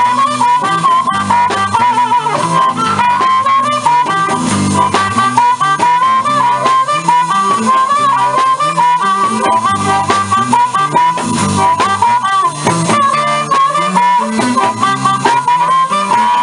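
Live blues band in an instrumental break: a harmonica plays a solo of wavering, bent notes over guitar and a steady rhythm section.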